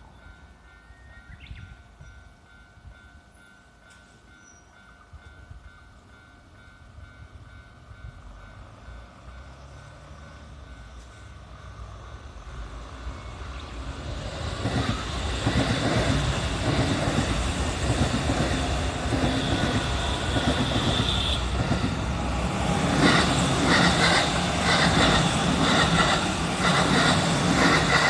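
A level-crossing warning bell rings with a steady, repeating tone as a Kintetsu Nara Line electric train approaches, growing louder from about halfway. The train then passes over the crossing, its wheels clacking rhythmically near the end.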